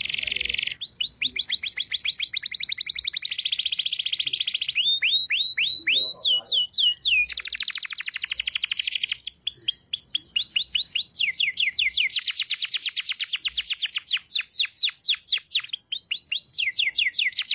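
Songbird song in fast rattling runs: short sweeping chirps repeated about ten times a second, each run lasting a second or two before switching to a new pitch or note shape.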